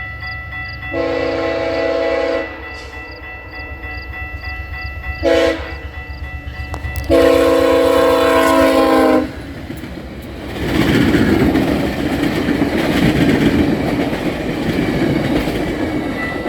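Diesel freight locomotive's multi-chime air horn sounding a grade-crossing signal: a long blast, a short one and a final long blast. After that the train rumbles past with clickety-clack from the rail cars.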